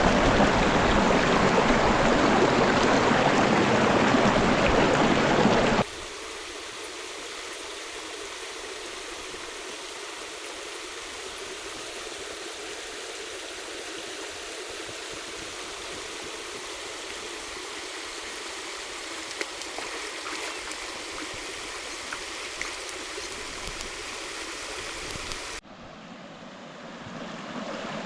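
River water rushing loudly, then, after an abrupt cut about six seconds in, a softer, steady stream flowing with a few faint clicks; another abrupt change comes near the end.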